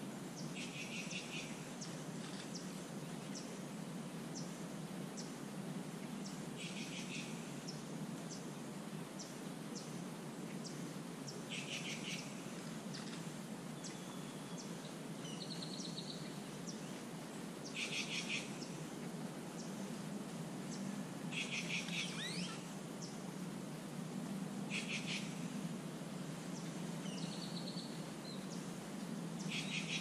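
Birds calling: a short, harsh chattering call repeats every few seconds, with a couple of brief whistled notes in between, over a steady low hum.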